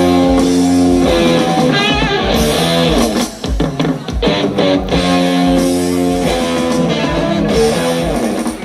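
Heavy metal band playing live: distorted electric guitars holding and changing chords over a driving drum kit, with a guitar note bent and shaken in vibrato about two seconds in.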